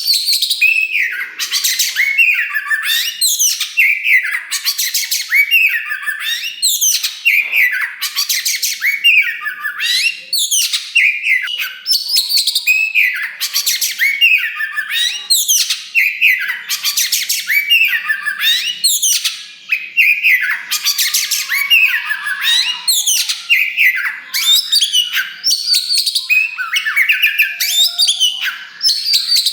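Oriental magpie-robin of the all-black kacer wulung form singing loudly and without pause: a fast, varied stream of whistled glides broken by harsh rasping notes.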